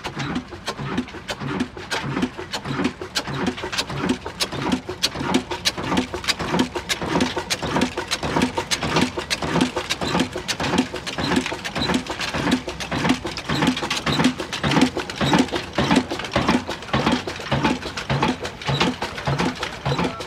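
Old Ruston Hornsby diesel engine running at a slow, steady speed: a regular low thud about two to three times a second with sharp clicks in between.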